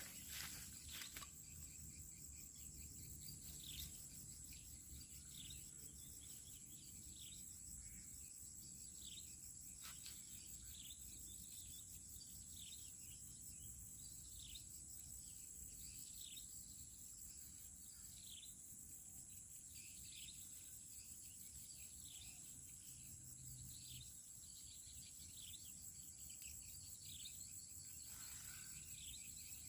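Faint outdoor insect chorus: a steady, high-pitched shrill drone, with short falling chirps repeating about once a second over it.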